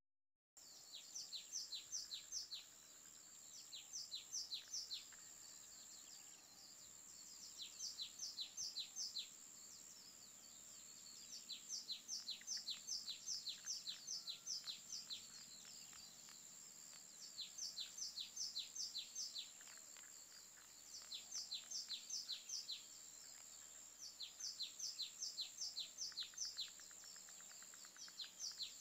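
A bird singing short phrases of six to eight quick, high notes, each slurred downward, repeated every few seconds, over a steady high-pitched hiss. The sound begins about half a second in, after a moment of silence.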